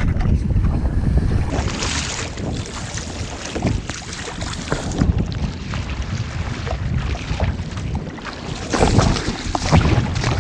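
Wind buffeting the microphone on a kayak at sea, a heavy low rumble that swells and eases, with sea water splashing around the hull.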